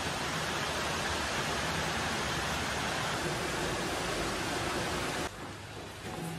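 Steady rain falling, an even hiss that cuts off suddenly about five seconds in.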